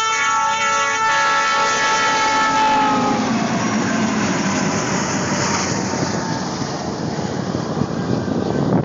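Train horn sounding a chord of several tones for about three seconds, sagging slightly in pitch as it fades, followed by the steady rumbling rush of a train passing.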